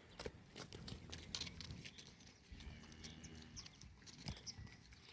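A cow mooing faintly once, starting about two and a half seconds in and lasting about a second, among scattered light clicks and knocks.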